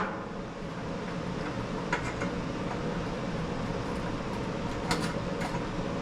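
Steady mechanical background hum, with a few faint light clicks about two seconds in and twice near the end.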